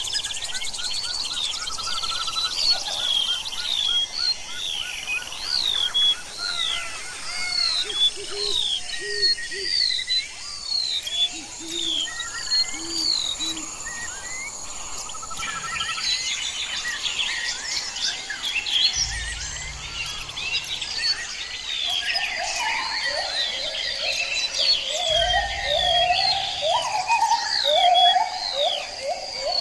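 Outdoor bird chorus: many birds chirping and calling in quick, repeated hooked notes over a steady high insect drone. About two-thirds of the way through, a lower, rapid series of calls joins in and becomes the loudest sound.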